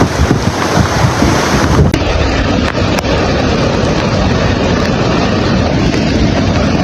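Loud, steady rushing noise of fast floodwater, with wind buffeting the microphone.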